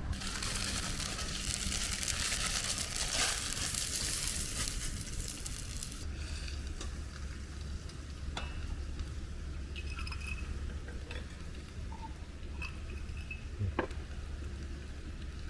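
Food frying in a wok: a dense, loud sizzle for about the first six seconds that then dies down to a quieter sizzle, with a few sharp clicks.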